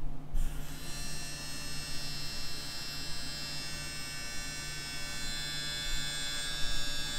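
Steady electronic drone from a film score: a dense, buzzing hum of many held high tones that comes in suddenly just after the start, over a low mains-like hum.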